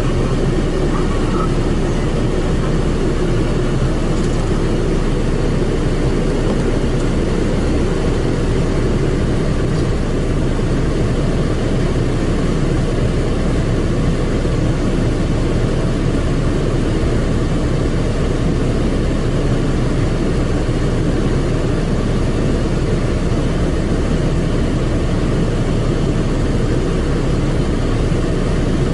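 Automatic car wash machine running over the car, heard from inside the cabin as a loud, steady rumble.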